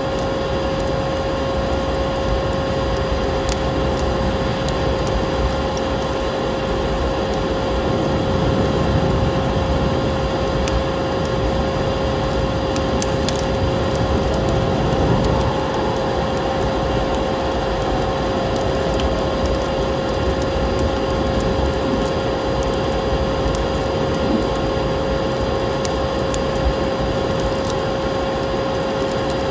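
Vacuum cleaner motor running steadily with an even hum and rushing air, over a wood fire crackling with scattered sharp pops.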